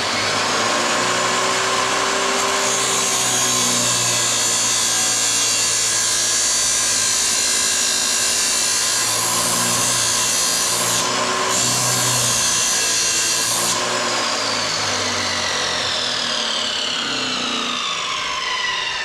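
Electric power tool running hard and steadily under load, a harsh grinding or cutting noise with a whine; from about two-thirds of the way through its whine slides slowly down in pitch.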